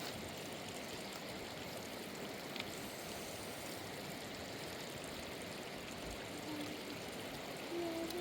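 Steady rushing of a fast-flowing river, an even wash of water noise with a single light click about two and a half seconds in.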